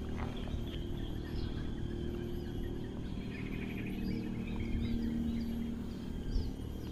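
Small birds chirping in short, repeated calls over a steady low background hum.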